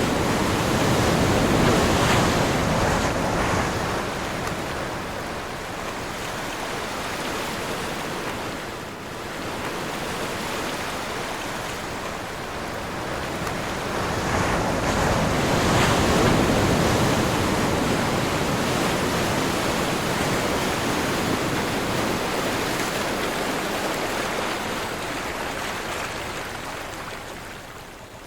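Sea waves surging and washing in, with wind. The surf swells about two seconds in and again about halfway through, and ebbs briefly in between and near the end.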